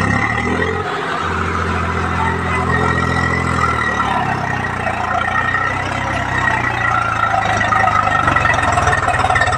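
Tractor diesel engine running under load. Its note shifts about four seconds in, and near the end it grows a little louder with plainer firing pulses.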